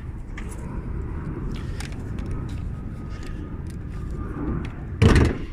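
A single loud clunk from the car's body about five seconds in, against a steady low rumble and light scattered clicks while the car is being opened up to show the engine compartment.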